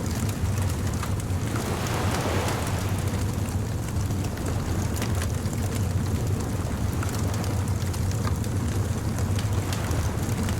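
Beach bonfire ambience: a wood fire crackling with many small pops over a steady low rumble of surf. A wave swells and washes in about two seconds in.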